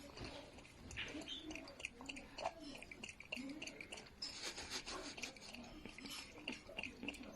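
Faint chewing by a pet eating, with many small clicks.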